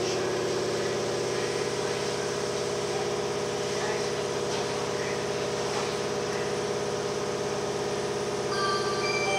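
Steady electrical hum of a Tokyu 8500 series train's onboard equipment while the car stands at a platform, heard from inside the car. Near the end, a few bell-like chime tones begin, like a station departure melody.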